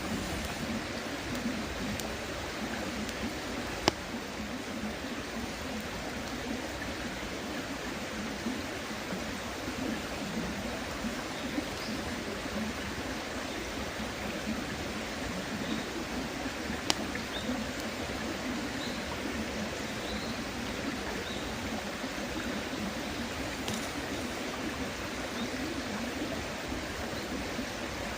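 A river babbling steadily, with a couple of sharp pops from a campfire and faint, short chirps of small birds.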